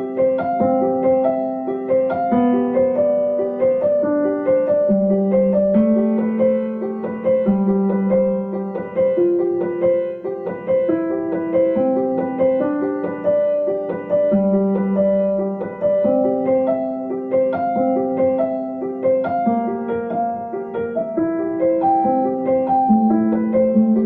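Background piano music: a steady flow of sustained notes and chords.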